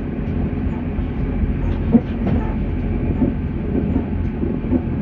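Auckland AM class electric multiple unit running on the rails, heard from inside the carriage: a steady low rumble of wheels and running gear, with a sharp knock about two seconds in.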